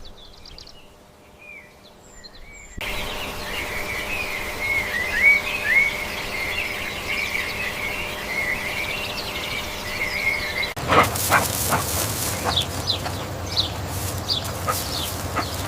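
Small birds chirping in a run of short clips joined by abrupt cuts. Dense, repeated chirps fill the middle stretch, and near the end they come with scattered clicks and knocks.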